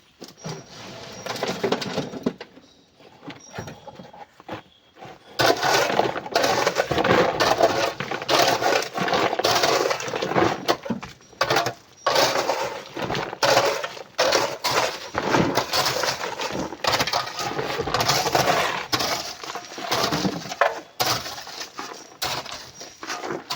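Chunks of rock and coral clattering and crunching against each other as they are loaded, a few scattered knocks at first and then a dense, continuous clatter from about five seconds in.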